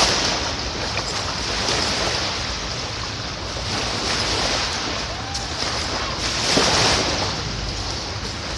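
Sea surf washing onto a sandy beach, a steady rush that swells and ebbs, loudest near the start and again about six and a half seconds in, with wind rumbling on the microphone.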